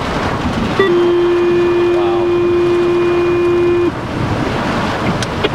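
A horn sounds once, a steady single pitch held for about three seconds, over the steady noise of a car driving in heavy rain.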